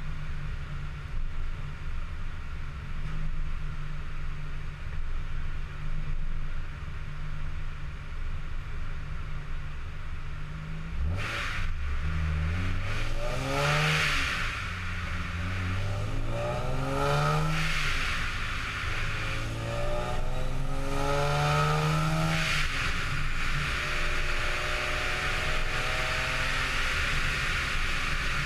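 Vortech-supercharged Nissan 350Z's 3.5-litre V6 running on a chassis dyno: idling for about ten seconds, then accelerating hard, its pitch climbing and dropping back three times as it works up through the gears, then holding a steadier, higher note near the end.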